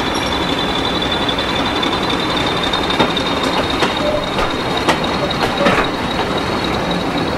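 Passenger coaches of a diesel-hauled train rolling past at low speed, wheels clicking irregularly over the rail joints, with a steady high-pitched wheel squeal.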